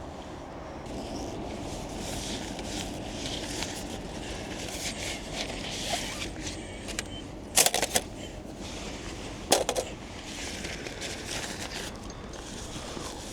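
Steady low rumble of wind buffeting the microphone, broken by a quick cluster of sharp clatters a little past the middle and one more sharp knock about two seconds later.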